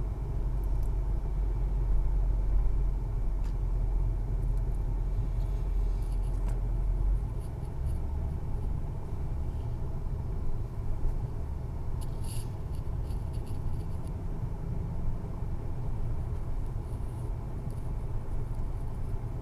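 Motorcycle on the move: a steady low engine and road rumble, with the deepest part of the rumble shifting about seven seconds in.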